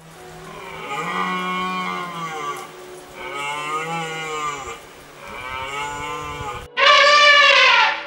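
Three long, low calls from a large hoofed grazing animal, each a second or more long with a slight rise and fall in pitch. About a second before the end, a much louder, brighter trumpeting call begins, an elephant's.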